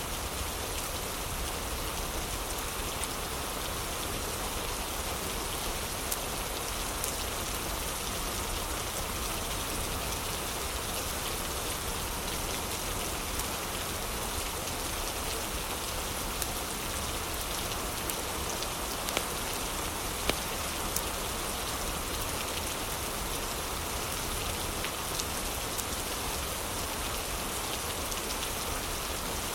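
Heavy rain falling steadily, an even hiss of rain on surfaces, with a few sharp clicks now and then.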